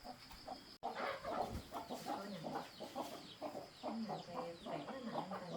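Many short, overlapping bird calls, dense and continuous, starting abruptly about a second in, over a faint, steady, high insect drone.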